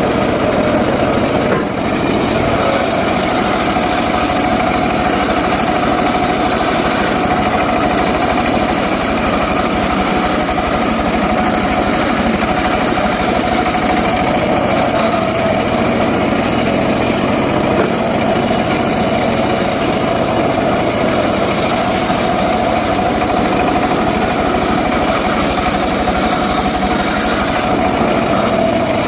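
Homemade engine-driven circular saw rig running steadily, its engine and blade giving a constant whine with no break.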